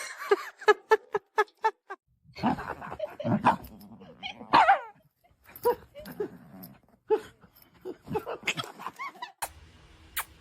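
A dog barking and yipping: a quick run of short yips in the first two seconds, then irregular barks and whines with one longer call that rises and falls in pitch.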